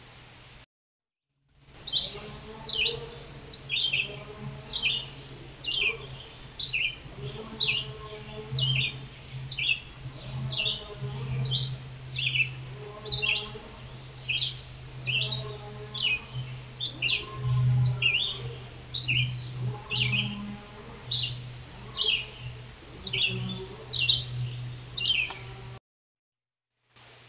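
A bird calling over and over: short, high notes that slide downward, repeated more than once a second.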